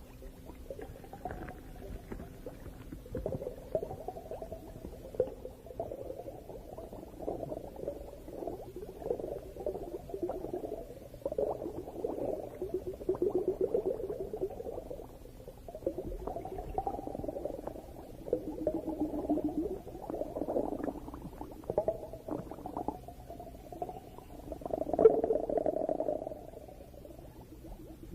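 Underwater bubbling and gurgling, coming in irregular bursts of a few seconds each, the loudest about 25 seconds in.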